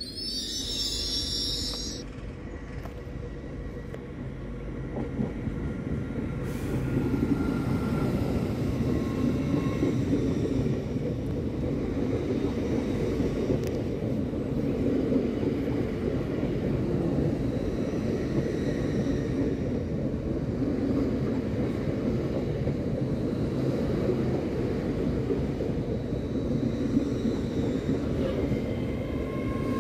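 An LNER Azuma high-speed train running along the platform: a steady rumble of wheels and running gear that builds over the first several seconds and then holds. A brief hiss comes at the very start.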